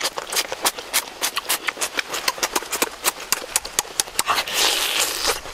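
Close-up mouth sounds of eating green papaya salad and chicken: wet lip smacks and chewing clicks, several a second and irregular, with a longer sucking sound near the end.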